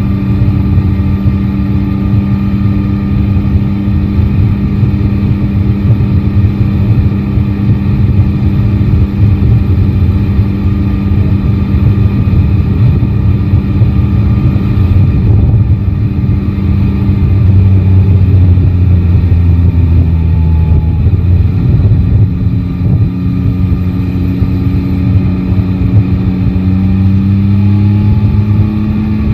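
Yamaha Tracer 9 GT's three-cylinder engine running at a steady cruise, its pitch easing down a little midway and rising again near the end as the rider opens the throttle. A heavy low rumble of wind and road noise runs underneath.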